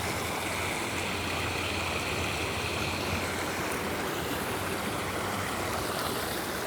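Falling water splashing steadily into a pond: a continuous even rush.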